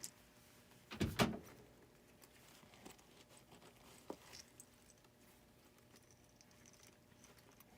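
Faint handling noises from working at the unit: two quick knocks about a second in and a small click around four seconds, with light ticking over quiet room tone.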